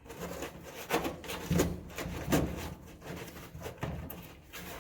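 Scattered knocks and scraping from parts being handled, about one knock a second, over a low steady hum.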